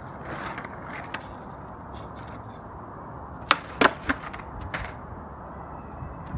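Strong wind buffeting the phone's microphone in a steady rumbling rush, with a few sharp clicks or knocks about halfway through.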